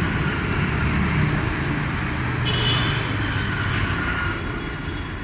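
Road traffic noise: motor vehicle engines running steadily, with a short high-pitched tone about two and a half seconds in.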